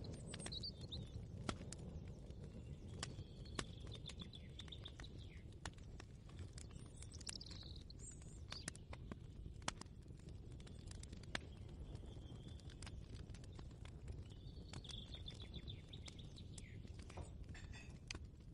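Ambient kitchen soundscape: a steady low rumble with scattered light clicks and knocks, and a bird trilling twice, a few seconds in and again near the end.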